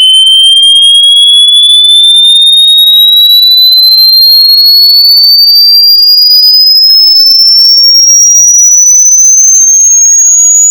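Loud synthesized speaker-cleaning tone, a single pure electronic whistle gliding slowly and steadily upward in pitch, with faint extra tones sweeping up and down around it. It is played loud to vibrate water and dust out of a speaker.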